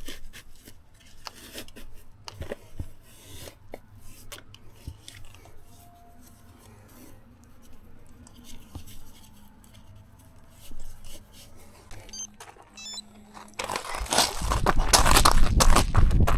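Faint scattered clicks and rustles of a snack and its wrapper being handled, then about fourteen seconds in a loud rush of rapid running footsteps as the run starts again.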